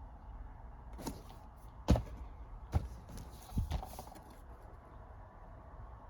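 Handling noise from Blu-ray and DVD cases being unpacked: a few sharp knocks and clicks, the loudest about two seconds in, over a low steady hum.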